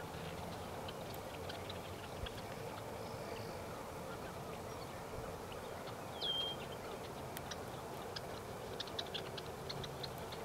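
Birds calling over a steady low background hum: scattered short, high chips and ticks, and one louder call about six seconds in that drops in pitch and then holds steady.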